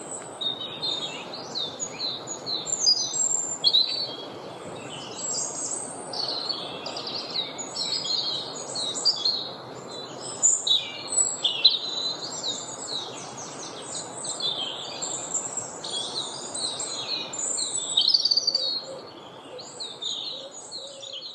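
A chorus of woodland songbirds, many birds singing and calling over one another in short, overlapping phrases, above a steady low rush of background noise. The singing thins out near the end.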